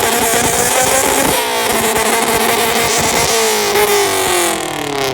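Car engine held at high revs against a two-step launch limiter, rough and crackling, its pitch sagging near the end before it cuts off suddenly.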